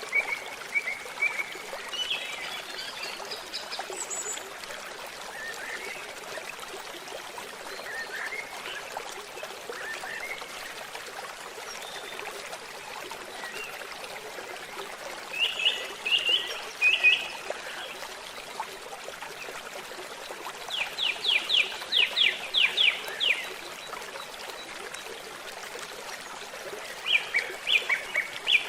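Stream trickling and babbling steadily, with songbirds singing over it: scattered chirps and whistles, and in the second half a few quick runs of rapidly repeated notes.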